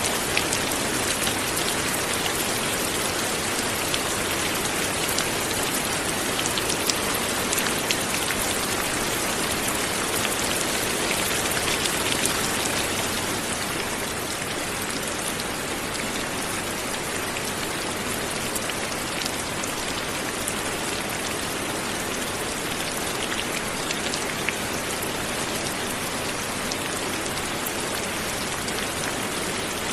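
Steady light rain falling, an even hiss with scattered small drop ticks.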